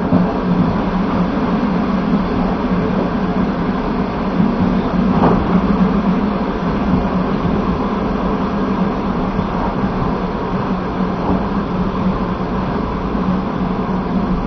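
Passenger train carriage rolling at speed: a steady rumble of wheels on rail, with a single brief click about five seconds in.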